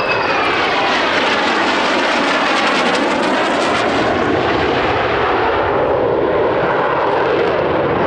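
Fixed-wing aircraft flying past loudly, with a steady engine rush. The high whine falls in pitch at the start as it passes.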